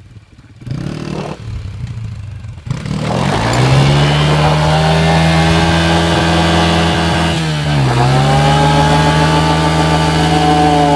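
Honda CRF150F dirt bike's single-cylinder four-stroke engine revved up about three seconds in and held at high revs for a burnout, with a noisy hiss over the top. The revs dip briefly near eight seconds and climb straight back.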